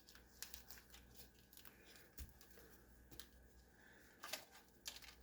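Faint crinkling and crackling of a chicken bouillon cube's wrapper being unwrapped by hand, a run of small ticks with two louder crackles near the end.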